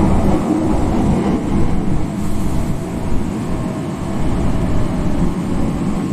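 Hankyu 5300-series electric train running: the rumble of wheels on rail and the TDK8550-A traction motors, steady, with a faint whine from the motors.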